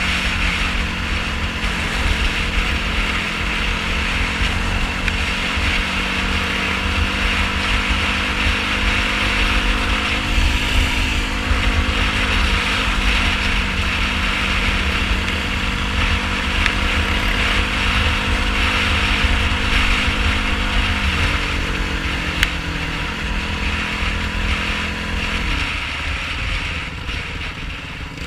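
Yamaha YFZ450R sport quad's single-cylinder four-stroke engine running under way off-road. Its pitch holds, then drops in steps about a third of the way in, again two-thirds in and near the end, like gear changes, over a heavy low rumble.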